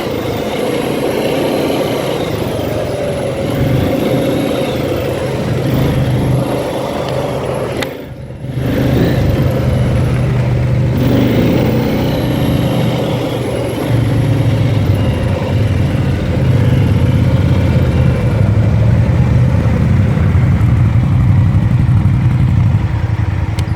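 ATV engine running under way. The engine note drops briefly about a third of the way in, then picks up again and runs a little louder in the second half.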